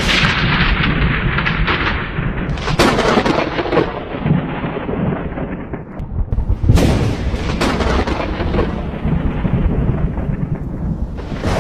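Thunderstorm: continuous deep thunder rumbling over a steady hiss of rain, with two sharper thunder cracks about three and seven seconds in, the second the loudest.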